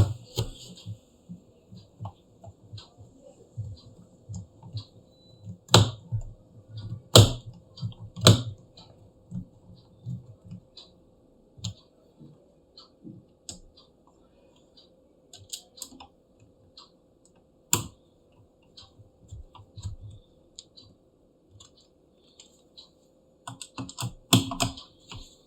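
Irregular small clicks and taps of a precision screwdriver and tiny screws being fitted into a laptop's plastic back panel, with a few sharper knocks about six, seven, eight and eighteen seconds in and a quick run of clicks near the end.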